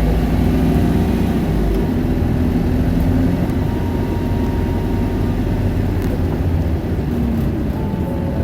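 Isuzu Erga 2KG-LV290N2 city bus's four-cylinder turbo-diesel engine and drivetrain running as the bus drives along, a steady drone whose pitch shifts a little with engine speed.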